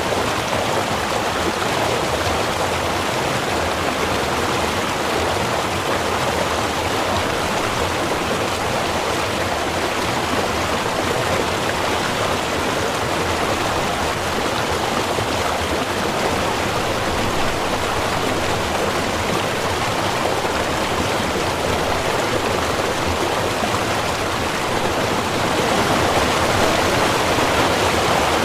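A small river or stream running steadily over rocks, an even rushing of water that gets a little louder near the end.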